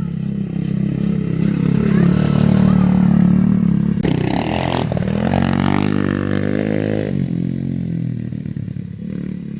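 Mini bike's small engine running, revving up about four seconds in and dropping back to a lower steady note after about seven seconds.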